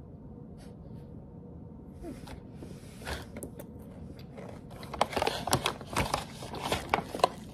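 Crunchy chocolate-covered pretzel snack being chewed: irregular crunches about three seconds in, then a denser run of crunches from about five to seven seconds.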